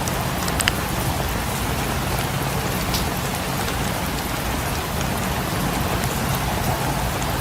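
Steady rain falling on a cabin, mixed with the occasional sharp crackle of a wood fire in a fireplace.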